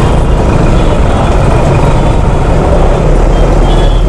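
Motorcycle engine running steadily at crawling speed in a dense traffic jam, heard loud and close through the rider's camera, over the rumble of surrounding vehicles.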